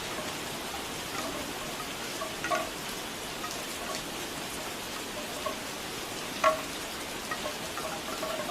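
Steady rain with bamboo wind chimes knocking together now and then, hollow wooden clacks at irregular moments. The loudest clack comes about two-thirds of the way through.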